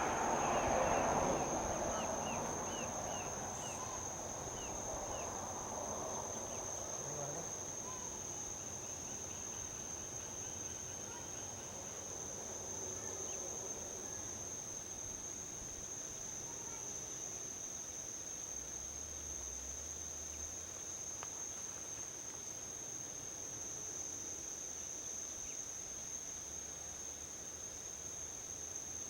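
Crickets trilling steadily at a high pitch. A passing vehicle swells and fades away in the first few seconds, and a few short chirps come a couple of seconds in.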